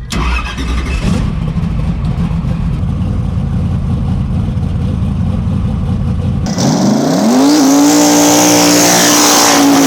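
A drag-race car engine rumbling at low revs. About six and a half seconds in it changes abruptly to an engine revving up and holding a steady high note under a loud rushing hiss.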